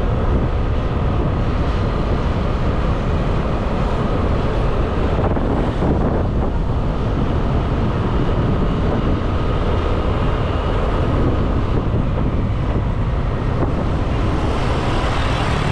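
Wind buffeting the microphone over a motorbike running steadily while riding along at speed.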